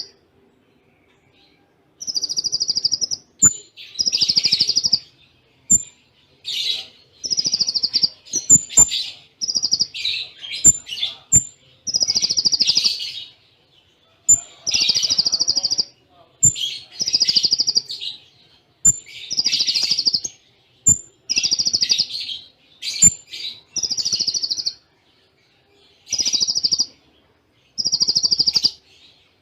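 Konin (kolibri ninja) singing in quick succession: short buzzy trilled phrases about a second long, separated by brief pauses. Sharp high chips and a few clicks are mixed in.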